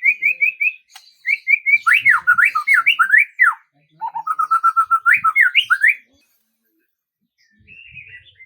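A songbird singing in three quick phrases of rapid repeated notes and fast up-and-down sweeping notes, the last phrase a rising run of rapid notes; it pauses about six seconds in, then softer chirps come near the end.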